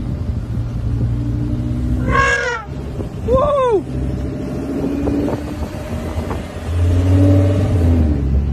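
A vehicle engine running, with two short pitched sounds that rise and fall about two and three seconds in, and a louder, deeper engine note near the end.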